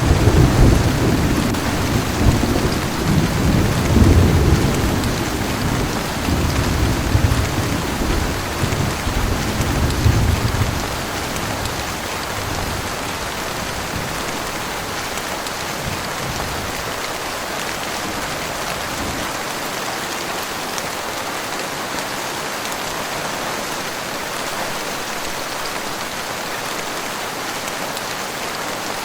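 Heavy rain falling steadily, with a roll of thunder rumbling and swelling through roughly the first ten seconds before dying away, leaving only the hiss of the downpour.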